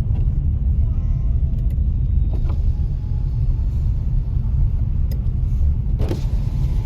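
Steady low rumble of a car creeping along a snow-covered road, heard from inside the cabin. There is one brief knock near the end.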